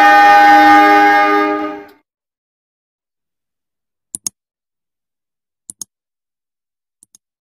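Diesel locomotive horn sounding a steady multi-tone chord, cutting off sharply about two seconds in. Then silence broken by three pairs of short clicks, each pair fainter than the one before.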